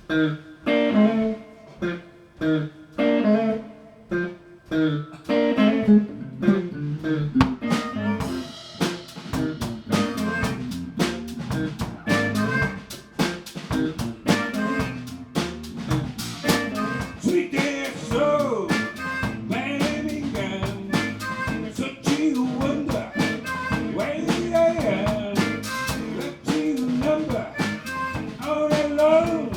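A live band playing. A guitar plays spaced chords on its own at first, and the drum kit and the rest of the band come in about eight seconds in, keeping a steady beat.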